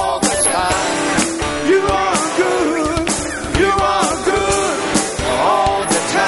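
Praise and worship music: a band with drums playing while a voice sings a wavering, held melody over a steady beat.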